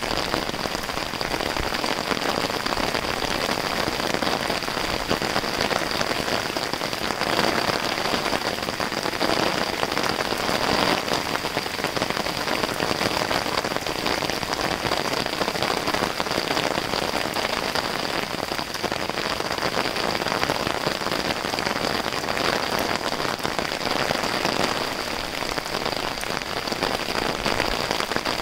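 Steady rain falling on a wet street.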